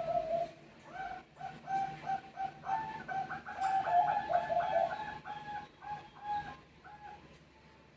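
Zebra doves (Bangkok perkutut) cooing: a quick run of short, evenly repeated notes, about three to four a second, with a second bird's slightly higher notes overlapping in the middle as the birds answer each other. The calling fades out near the end.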